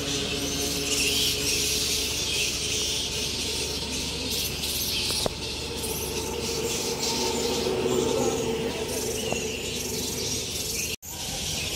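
A roosting colony of flying foxes (fruit bats) chattering and screeching together in a dense, continuous high-pitched din. The sound briefly cuts out near the end.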